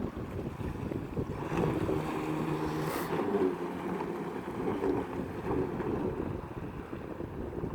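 Wind buffeting the microphone, with a low humming tone from about one and a half to three and a half seconds in and a sharp click about three seconds in.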